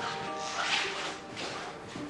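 Background music from a TV drama score: sustained held notes that change pitch now and then, with soft hissy swells over them.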